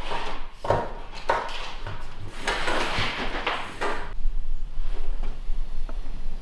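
Clunks and scrapes of an extension cord being fed through a cabin door, several in the first four seconds, then a low steady hum.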